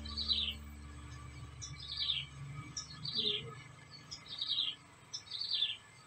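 A bird calling over and over, about once a second: each call is a short high note followed by a slurred, falling note.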